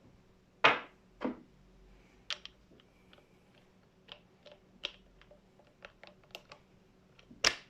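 Clicks and knocks of small hard parts being handled and fitted together on a cordless impact wrench. The loudest knocks come just under a second in, about a second later, and near the end, with a scatter of light clicks between.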